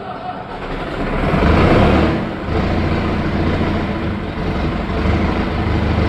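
Leyland tractor's diesel engine catching on starting fluid during a cold start: about a second in it fires and runs up loudly, then settles into a steady run.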